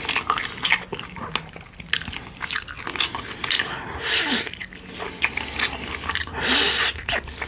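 Close-miked eating sounds: biting and chewing with crisp, clicking crunches, and two longer hissing mouth sounds about four and six and a half seconds in.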